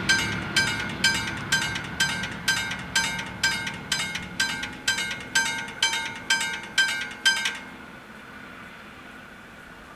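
Level crossing bells ringing in rapid, evenly spaced strikes, about two and a half a second, then stopping abruptly about three quarters of the way through, as the crossing clears after the train. Under the first few seconds the low rumble of the passing diesel railcar fades away.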